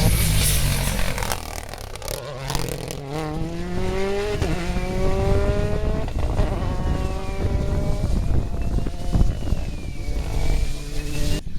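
Rally car engine revving hard and climbing in pitch through the gears, with a gear change about four and a half seconds in, then holding a high, steady note.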